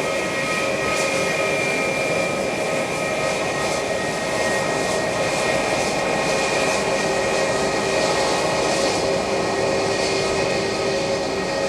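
Airbus A330-900neo's Rolls-Royce Trent 7000 jet engines running, a steady whine of several tones over a rushing noise.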